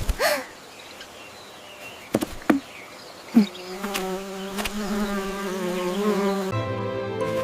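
A steady, insect-like buzz sets in a few seconds in, after a few short clicks with falling pitch. Music with a low bass comes in near the end.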